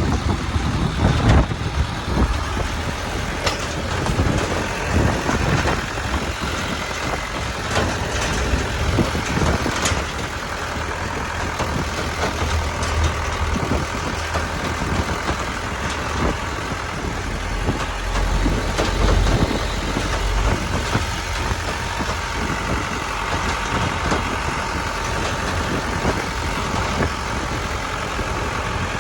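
Truck driving along the road, heard from its open cargo bed: steady engine rumble and road noise, with scattered knocks and rattles.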